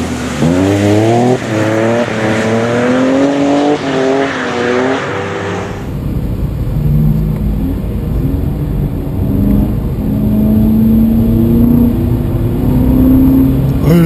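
BMW E36 M3's straight-six revving while drifting on a wet track, its pitch climbing in about five rising sweeps. About six seconds in the sound switches to inside an E92 M3's cabin: its V8 running at a lower, steadier pitch over a low rumble.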